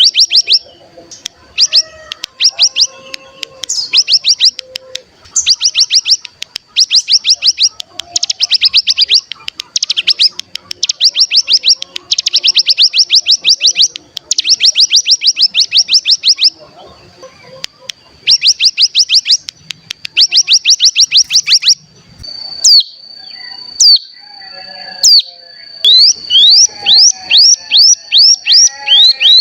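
Ciblek gunung (a mountain prinia) singing: fast chattering trills ('ngebren') in phrases about a second long, repeated over and over, over a steady high thin tone. Later the trills stop, giving way to a few sharp single calls and then a quick run of rising notes, about three a second.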